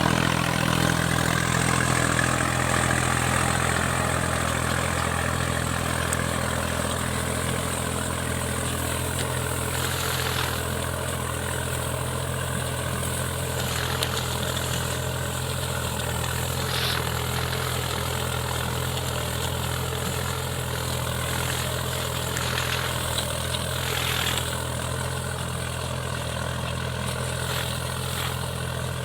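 Tractor's diesel engine running at a steady speed, with a few short knocks over it.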